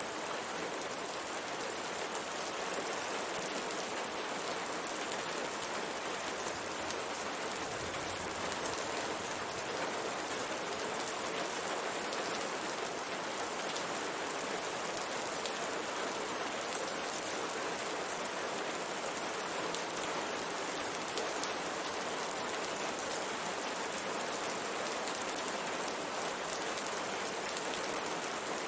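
Steady rain falling, with drops pattering on window glass.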